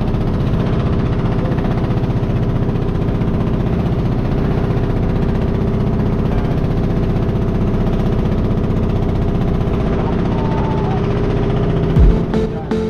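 Engine running steadily: a constant drone with fast, even pulsing. Music with a heavy beat cuts in about a second before the end.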